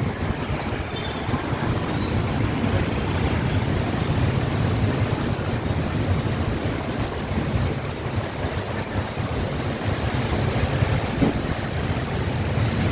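Heavy rain falling, a steady rushing noise with a strong low rumble of wind on the microphone.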